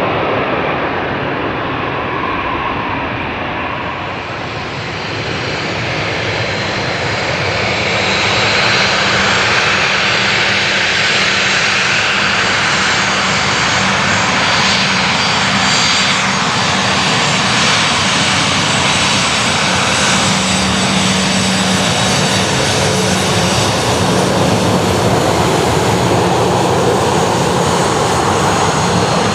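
Jet engines of a Boeing 737-800 landing, a loud steady noise with a thin high whine. It grows louder from about six seconds in and stays loud.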